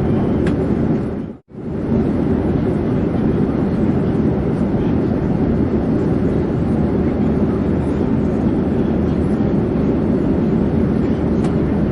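Steady low rumble of an airplane in flight. It drops out to silence for a moment about a second and a half in, then resumes unchanged.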